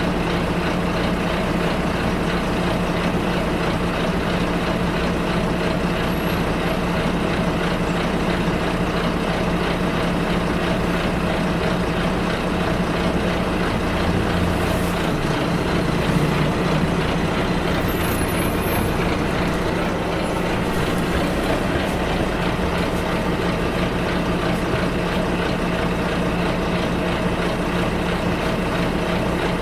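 Bus engine and road noise heard inside a moving bus: a steady hum over rumble. About halfway through, the engine note shifts for a couple of seconds, then settles back.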